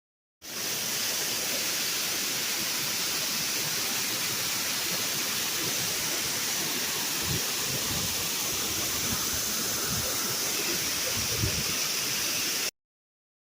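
Waterfall rushing in a steady, loud hiss of falling water. It starts abruptly about half a second in and cuts off sharply near the end.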